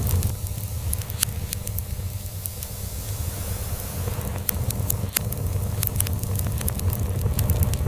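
Log fire crackling in a fireplace, with sharp irregular pops over a low steady rumble of a cat purring.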